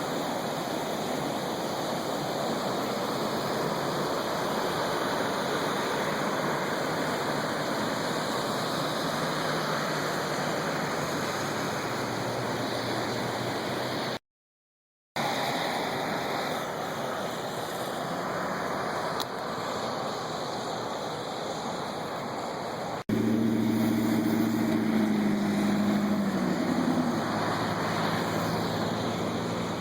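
Rushing floodwater, a steady roar of water. It cuts out briefly about halfway through. Near the end a low droning tone that wavers in pitch joins the water.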